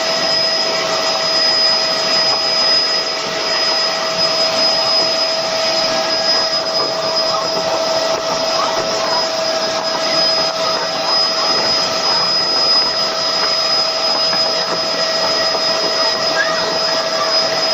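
Helicopter turbine and rotor noise from inside the cabin during a sightseeing flight: a steady whine over a constant rushing noise.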